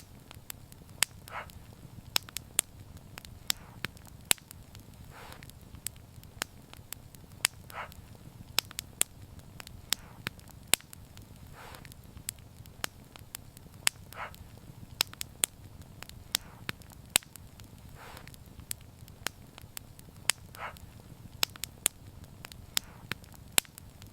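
Wood fire burning: irregular sharp crackles and pops over a steady low rumble of flames, with a faint brief hiss recurring every three seconds or so.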